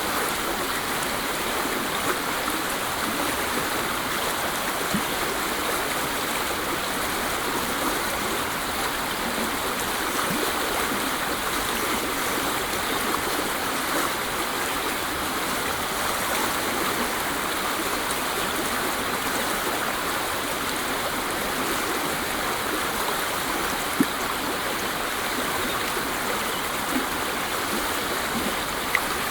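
Waterfall: a steady, even rush of falling water, with a few brief splashes standing out.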